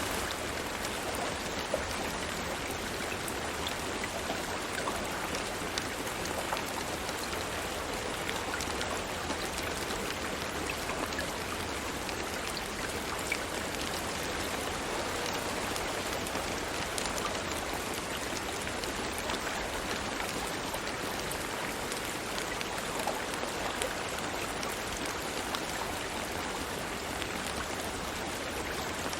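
Steady rain falling: an even hiss with many small, separate drop ticks.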